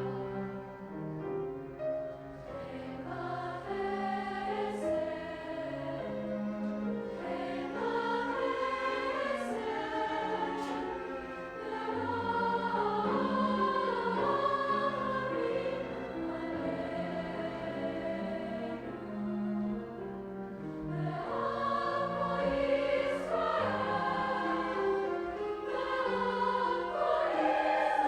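High school choir singing in parts, holding sustained notes that move in chords.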